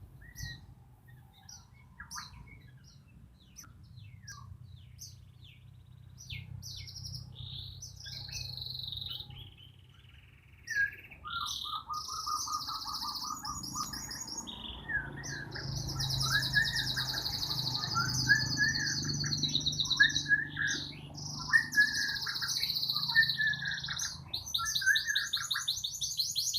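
Pet white-crowned shama (murai Borneo) singing: scattered short chirps at first, then from about halfway a fuller, louder song of rapid high trills and varied whistled phrases. A low steady hum runs underneath.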